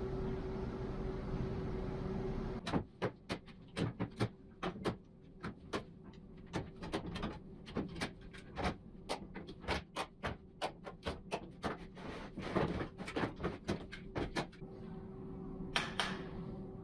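A steady workshop hum with a faint steady tone stops suddenly. It is followed by a long run of sharp, irregular knocks and taps, about two or three a second, like hand work on wood. Near the end the hum comes back, with a few more knocks.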